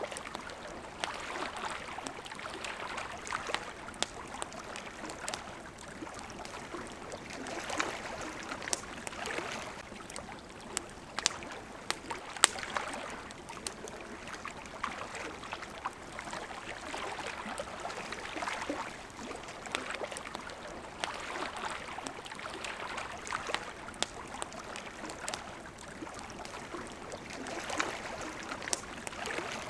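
Campfire crackling with scattered sharp pops, over water lapping and splashing at the shore in gentle swells every couple of seconds.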